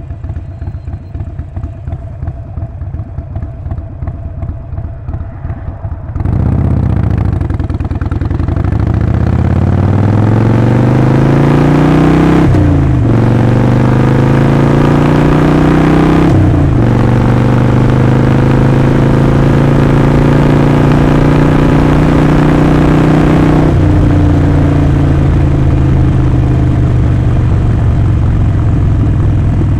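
Harley-Davidson Sportster Forty-Eight's air-cooled 1200 V-twin idling with a lumpy, pulsing beat, then pulling away about six seconds in. The revs climb and fall back sharply at two upshifts, and the bike then cruises at a steady engine speed.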